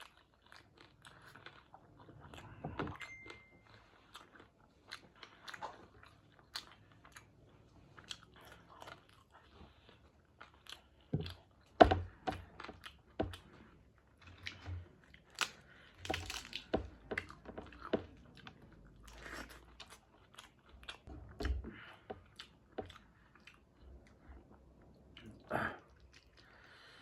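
A person eating close to the microphone: irregular chewing, biting and crunching with wet mouth smacks, and one sharper snap about twelve seconds in.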